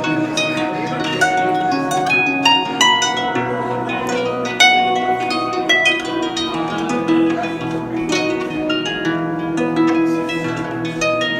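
Solo harp playing an instrumental passage: plucked notes, several a second, ring on into each other over held low bass notes.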